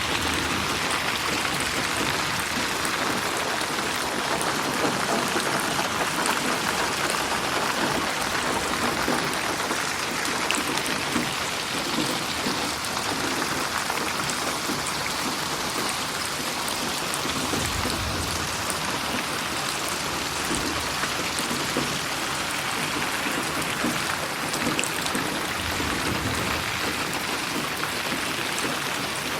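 Steady rain falling, a continuous patter of drops with scattered sharper drips and a faint low rumble now and then, panned around the listener in 8D audio.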